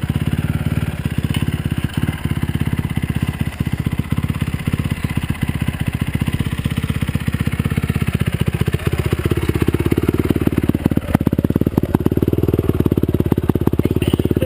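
Honda CRF250R's single-cylinder four-stroke engine revved and held high during a burnout attempt on a worn rear tyre. It gets louder and higher about nine seconds in.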